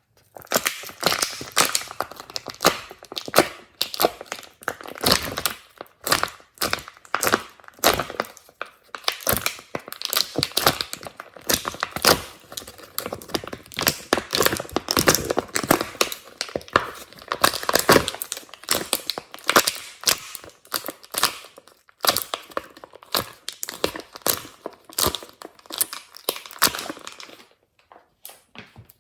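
Hands squeezing and poking glossy slime: a dense run of quick, irregular crackles and pops, with a few short pauses.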